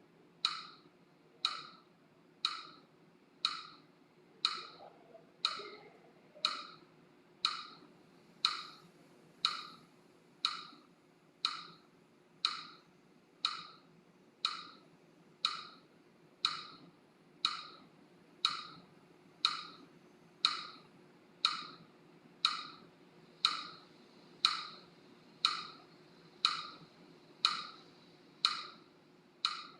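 Metronome-style click ticking steadily about once a second, each tick short and sharp.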